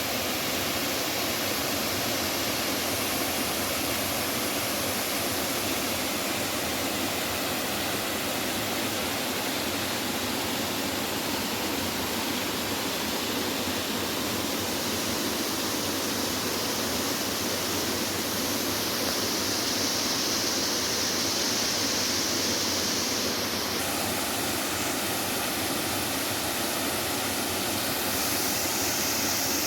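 Waterfall's rushing water: a steady, even hiss with no let-up, its tone shifting slightly a couple of times in the second half.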